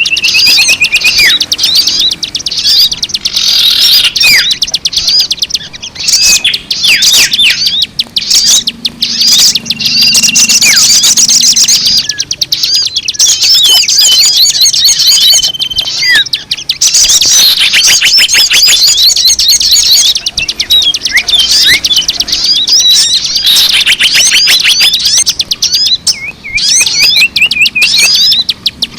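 Dense chorus of many small birds chirping and trilling over one another without a break, with a few short steady whistles mixed in: a bird-lure recording meant to draw in birds of many kinds.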